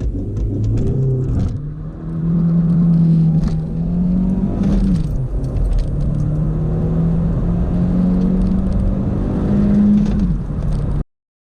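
Volkswagen Golf Mk4 petrol four-wheeler's engine pulling hard under full-throttle acceleration, its pitch climbing slowly, dropping at a gear change about five seconds in, then climbing again. The sound cuts off suddenly near the end.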